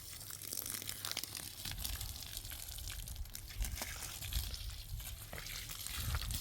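Food frying in a pan: a steady sizzle scattered with small crackles and spatters, over a low rumble.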